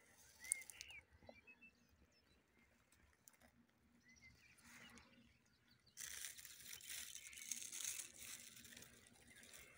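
Mostly quiet, with a few faint bird chirps in the first second. About six seconds in, a crinkling rustle starts and lasts about three seconds.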